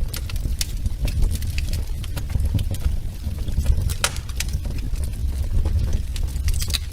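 Wood fire burning in a fireplace: irregular sharp crackles and pops from the burning logs, a few louder snaps among them, over a steady low rumble.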